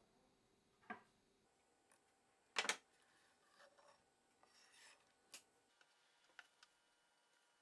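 Quiet handling sounds: a few short rubs and clicks, the loudest a brief rustle about two and a half seconds in.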